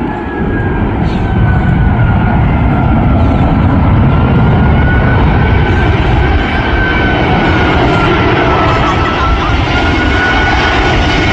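Jet airliner passing low on its landing approach: loud engine rumble with a high fan whine that drifts gently in pitch.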